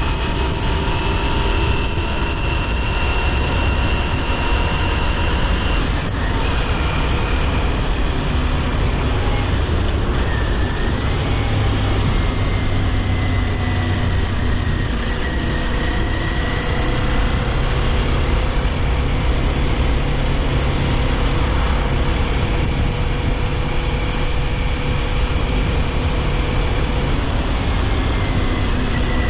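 Kawasaki Ninja 400's parallel-twin engine running at a steady cruise, its pitch drifting only slightly, over constant wind and road noise.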